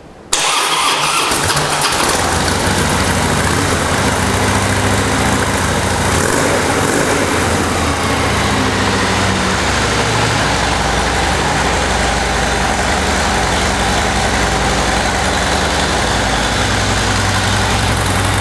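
2014 Harley-Davidson Dyna Fat Bob's 103-cubic-inch V-twin engine, on its factory exhaust, starting less than a second in and then idling steadily.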